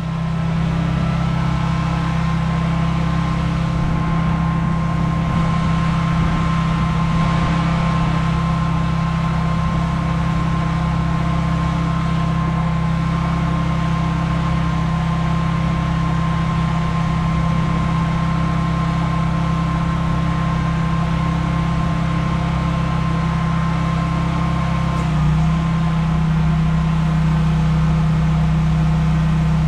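Pressure washer's engine running steadily at working speed, with the hiss of the spray over the hum; its pitch steps up slightly about 25 seconds in.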